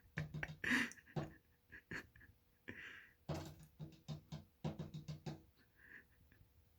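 American robin pecking at window glass: quick clusters of sharp taps, several in a row, with short gaps between the bursts.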